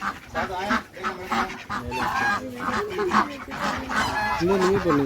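Domestic geese honking repeatedly, several birds calling over one another in short honks.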